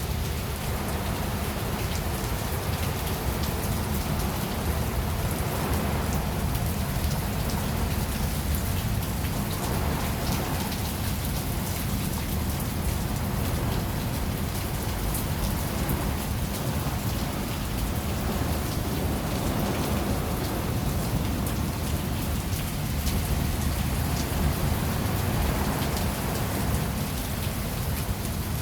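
Steady rain falling, with many single drops ticking on a hard surface over a constant low rumble.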